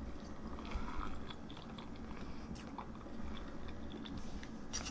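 A person quietly chewing a mouthful of soft lemon meringue pie, with faint small mouth clicks.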